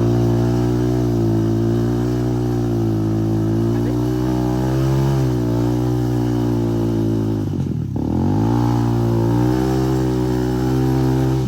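Motorcycle engine running steadily under way. Its pitch dips briefly about five seconds in, falls sharply near eight seconds, as at a change of throttle or gear, then climbs back to a steady pitch.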